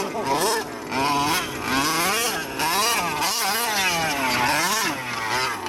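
Two-stroke engine of a Losi 5T 1/5-scale gas RC truck revving up and down repeatedly, with about six rising-and-falling swells in pitch.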